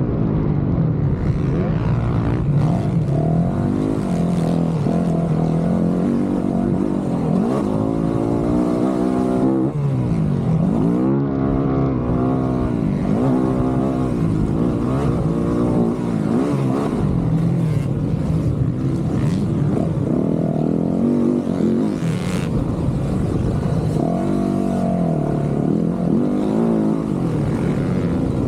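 Dirt bike engine revving hard and easing off again and again, its pitch climbing and dropping every second or two as the throttle is worked and gears are changed.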